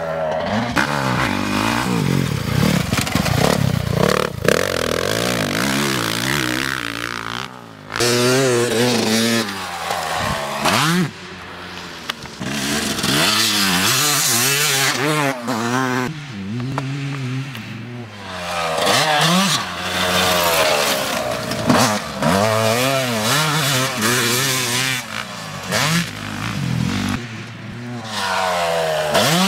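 Motocross bike engine revving hard, its pitch rising and falling over and over as the rider works the throttle and shifts gears, with brief drops in level when the throttle is shut.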